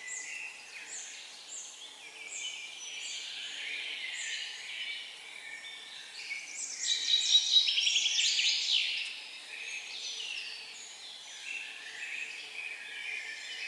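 Several songbirds singing together. A repeated series of short falling notes comes first, then a louder, rapid trilling song from about six and a half seconds in that lasts a couple of seconds.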